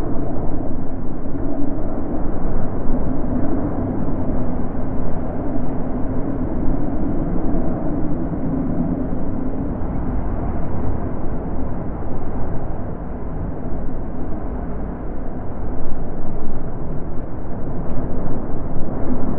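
Wind blowing, a steady low rushing noise that swells and eases without a break.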